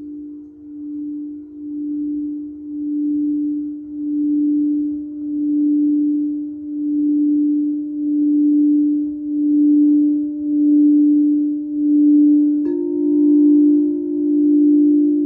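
Singing bowl being rimmed: one sustained humming tone that swells and pulses slowly, about once every second and a quarter, growing louder over the first few seconds. About 12–13 seconds in, a strike adds a second, higher ringing tone on top.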